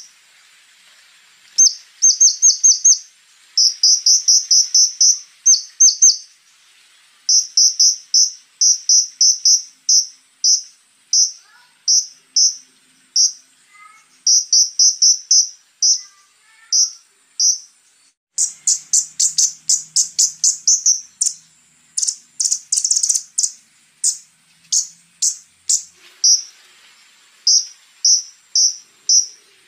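Konin bird singing: rapid bursts of short, sharp, high chirps with brief pauses between the runs, and a louder, harsher run of notes about two-thirds of the way through.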